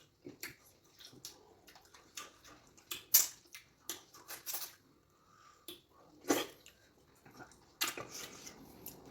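Close-up eating sounds from fufu with slimy okra soup: irregular short wet slurps, smacks and squelches, the loudest about three seconds in and again about six and a half seconds in.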